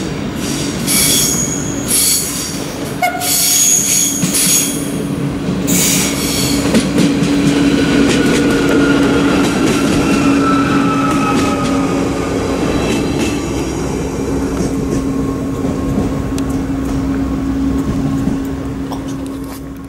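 A passenger train rounds a curve and runs past, its wheels squealing high on the curved track for the first several seconds. After that it passes with a steady low drone and rumble.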